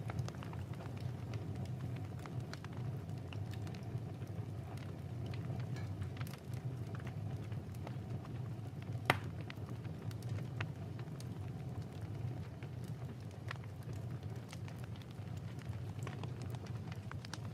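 Fireplace fire burning with scattered crackles and pops over a steady low rumble, with one sharper snap about nine seconds in.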